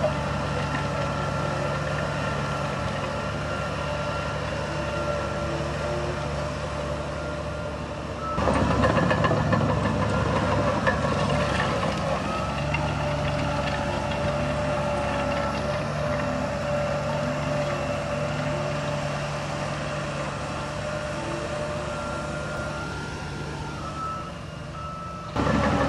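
Heavy diesel construction machinery running steadily, with a reversing alarm beeping. The engine sound jumps louder about eight seconds in.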